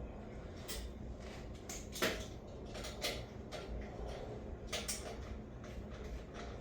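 Scattered light clicks and knocks of small parts being handled, with a sharper knock about two seconds in and smaller ones about three and five seconds in.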